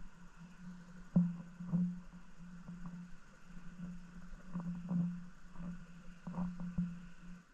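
Muffled underwater sound of moving stream water around a submerged camera, a steady churning rumble with scattered knocks and ticks, the loudest about a second in.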